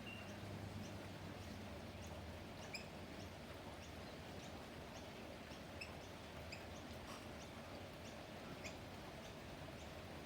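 Small garden birds giving faint, scattered short chirps over a steady low background hum.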